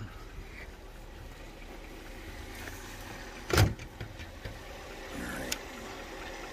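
Mercedes S430's V8 engine idling steadily, a low rumble, with one sharp knock about three and a half seconds in.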